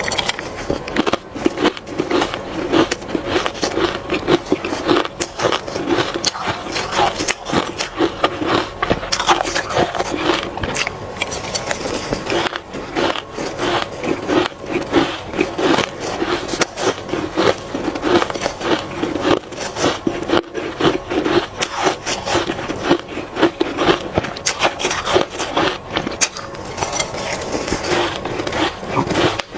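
A person biting and chewing hard ice close to the microphone: a dense run of irregular crunches and cracks.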